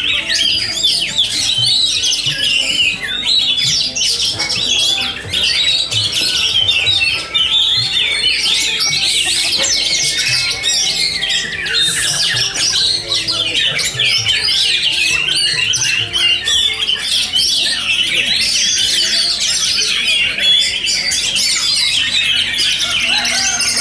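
Many oriental magpie-robins singing at once: a dense, unbroken chorus of overlapping whistles, chirps and harsh squawks, the massed song of a kacer singing contest.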